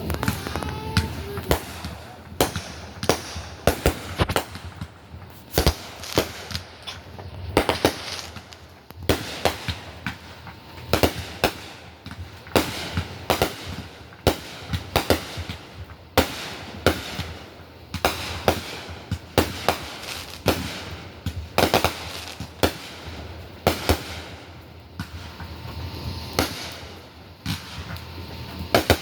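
Fireworks going off in a long, irregular series of sharp bangs and pops, at times several a second.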